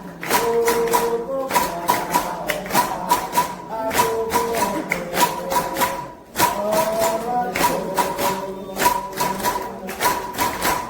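Candomblé ritual music: atabaque hand drums beating a fast, steady rhythm with a metal bell ringing on the beat, and voices singing a chant over them. The music dips briefly about six seconds in and carries straight on.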